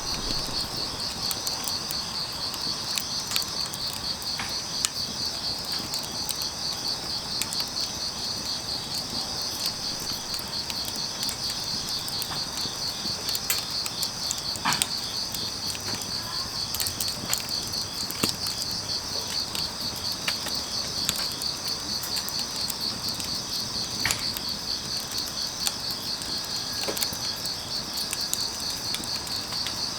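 Crickets chirping in a steady, fast-pulsing high trill, with sharp crackles and pops from a burning wood fire scattered through it.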